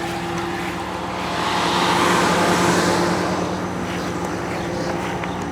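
Steady engine hum, with the rush of a passing vehicle swelling and fading about two seconds in.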